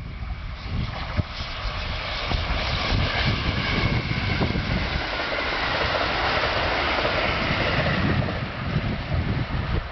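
Electric train passing, its noise building over the first few seconds, holding through the middle and fading near the end, with wind buffeting the microphone.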